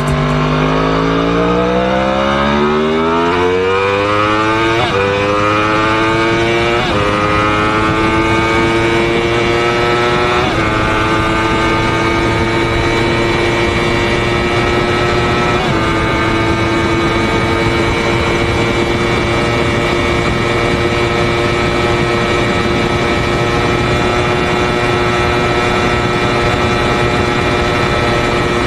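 Sportbike engine accelerating hard: its pitch climbs through the gears with four quick upshifts in the first sixteen seconds, then holds almost steady at high revs.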